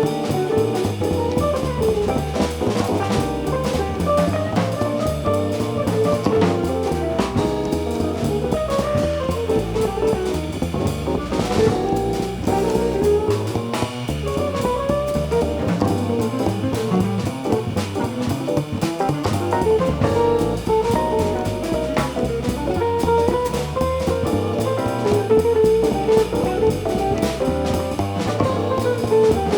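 Live jazz band playing continuously, with guitar lines over a drum kit and a moving low bass part.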